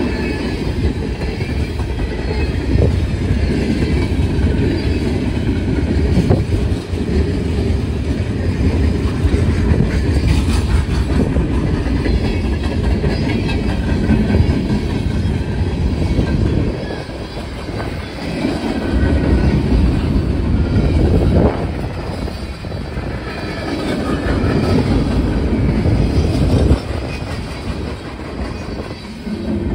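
Freight train cars (boxcars and an autorack) rolling past close by: a continuous loud rumble and clatter of steel wheels on the rails, dipping in level briefly a few times in the second half.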